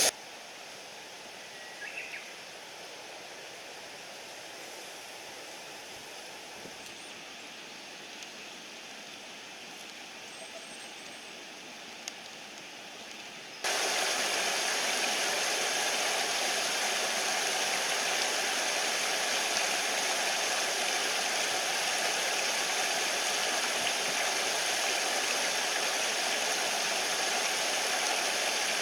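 Steady rush of a mountain stream. About halfway through it cuts suddenly to a much louder rush, as if much closer to the water.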